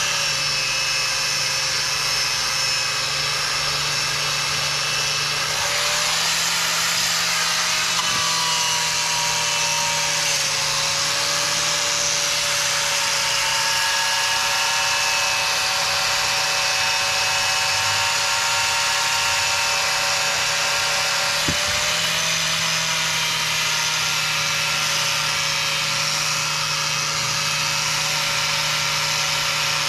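Angle grinder with a stiff wire cup brush running steadily against metal, scouring off stubborn old undercoat. Its whine wavers slightly in pitch as it is pressed into the work.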